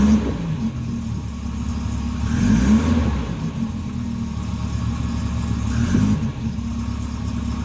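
Volvo 240 engine running shortly after a cold start, idling steadily with three short throttle blips: one right at the start, one a little before the midpoint and one near the end.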